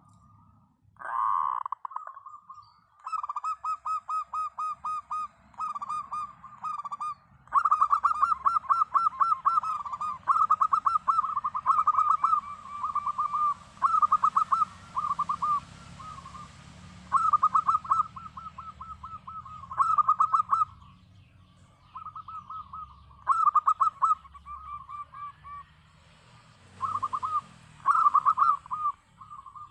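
Zebra dove (local perkutut) singing: repeated phrases of fast, trilling coos, each a second or two long, separated by short pauses.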